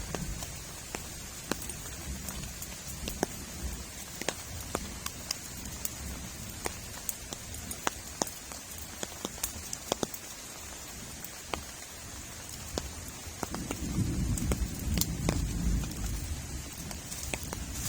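Heavy rain falling steadily, with many individual drops ticking sharply on a nearby surface. A low rumble swells for a few seconds about three-quarters of the way in.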